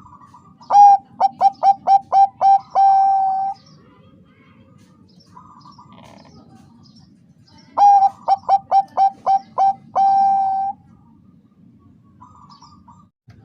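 Bangkok-type zebra dove (perkutut) cooing: two bouts, each a quick run of about seven short clipped coos ending in one longer held coo.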